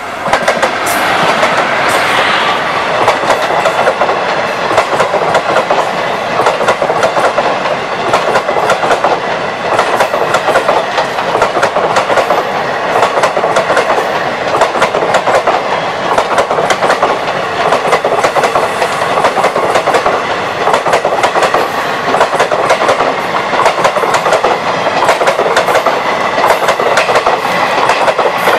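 Express passenger train passing close at speed: a WCAM/3 electric locomotive goes by at the start, then a long rake of coaches follows with a steady, rapid clickety-clack of wheels over the rails. The sound jumps up sharply as the locomotive reaches the microphone and stays loud and even.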